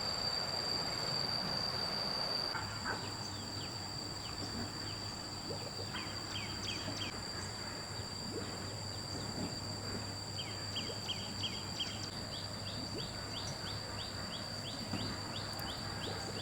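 Outdoor ambience: a steady, high-pitched insect drone, with a bird giving runs of short falling chirps that come faster near the end.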